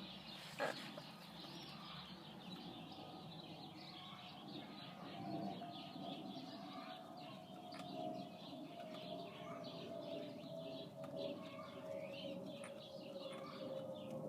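Faint birds chirping in the background, with a single sharp click less than a second in. A steady drone slowly falls in pitch from about five seconds in.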